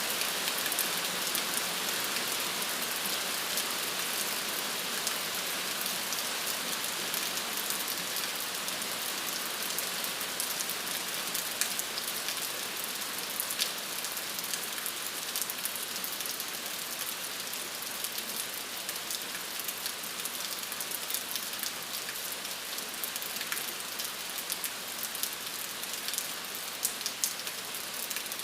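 Steady rain falling and pattering on a surface, a dense hiss of many small drop ticks.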